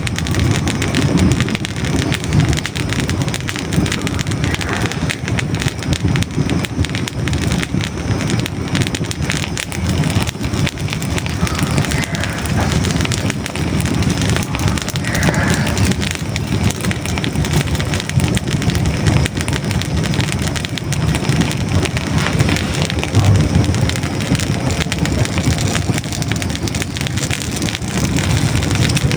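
Hardwood logs burning in a fireplace: a steady low rush of flames, thick with constant fine crackling and small pops.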